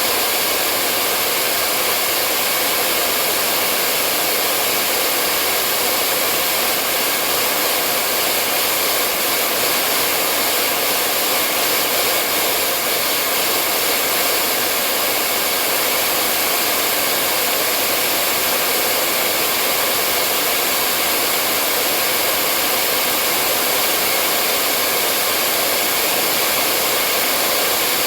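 Hair dryer blowing steadily, a constant whooshing rush of air with a motor hum, unchanging throughout: continuous white-noise-like sound of the kind used to soothe babies to sleep.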